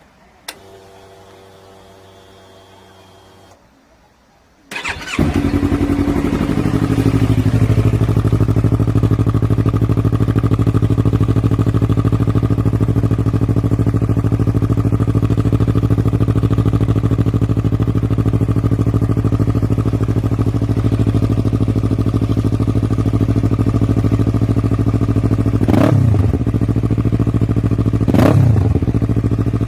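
Yamaha MT-03's parallel-twin engine with an Akrapovic full exhaust system being started: a click and a faint hum, then the starter and the engine catching about five seconds in. It settles into a steady idle, and the throttle is blipped twice near the end.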